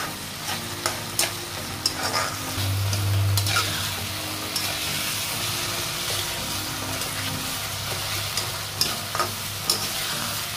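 Mashed bottle gourd sizzling as it fries on high flame in a metal kadhai, with a perforated steel spoon scraping and clicking irregularly against the pan as it is stirred. This is the roasting stage, cooking the mixture until it dries and releases its oil.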